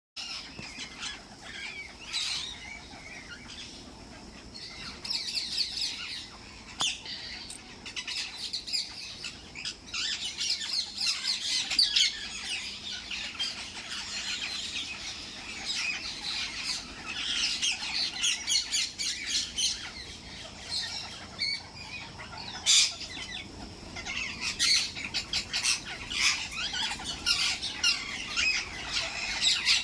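A group of parrots chattering and chirping over one another, with sharp squawks breaking through now and then, a loud one about two-thirds of the way through.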